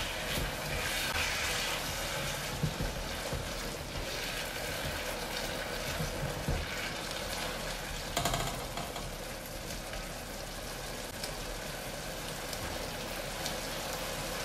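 Vegetables frying in a wok, a steady sizzle as a spatula stirs them, with a few sharp taps of the spatula against the pan.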